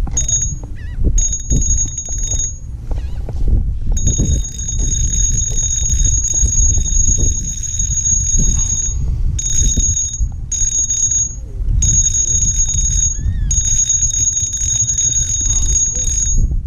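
Wind rumbling on the microphone, with a high, ringing whine that comes and goes in seven stretches of one to five seconds each.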